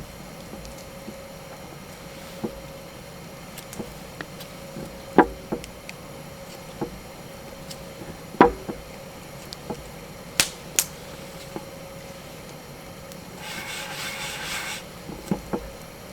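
Scattered knocks and clicks of objects being handled, at no steady rhythm, with a short rustling burst near the end.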